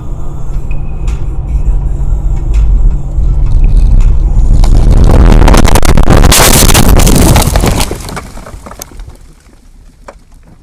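Car road noise as a low rumble, then about four and a half seconds in a loud, harsh crash with scraping that lasts some three seconds and dies away.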